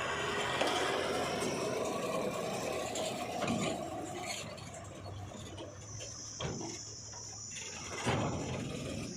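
Heavy diesel machinery running and working, with clanks and a couple of sharp knocks; a steady high-pitched whine joins about halfway through.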